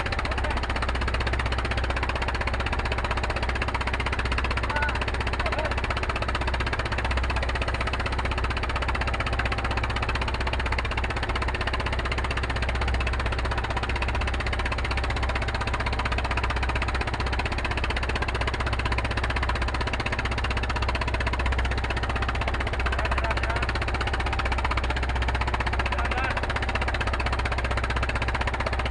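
Fishing boat's diesel engine running steadily with a fast, even knock.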